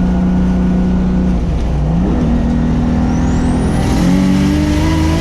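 Turbocharged 2JZ-GTE inline-six of a highly modified SC300, heard from inside the cabin while driving: the engine note holds steady, dips and climbs to a higher pitch twice, with a faint high whine rising about three seconds in.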